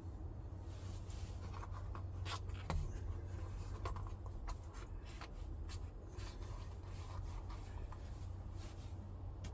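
Scraping, rubbing and scattered light clicks of hand work with parts and tools, over a steady low hum.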